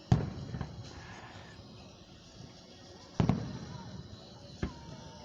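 Aerial fireworks shells bursting: a loud boom just after the start, another about three seconds in, and a smaller one near the end, each followed by a rolling echo.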